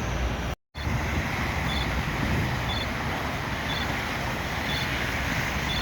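Steady street traffic noise from passing vehicles, with a faint short double beep repeating about once a second. A brief gap of silence breaks it about half a second in.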